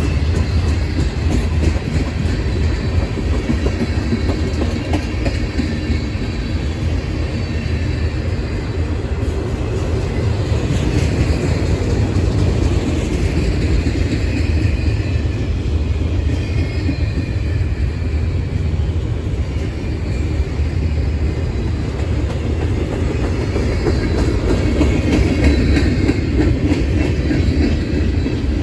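Train rolling past with a steady heavy rumble and the clatter of its wheels over the rails.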